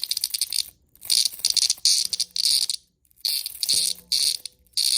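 A handheld cicada buzzing loudly in harsh, rapidly pulsing high-pitched bursts of one to two seconds each, broken by short gaps.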